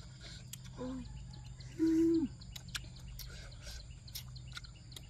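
A person chewing grilled shellfish with the mouth closed: wet smacking clicks throughout. Two short hummed 'mm' sounds, the louder one about two seconds in, steady and then dropping in pitch.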